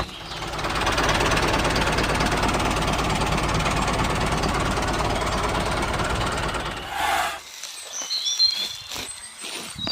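A small motor-driven DIY model machine running with a dense, steady rattle and a low hum, cutting off suddenly about seven seconds in. Birds chirp in the quiet that follows.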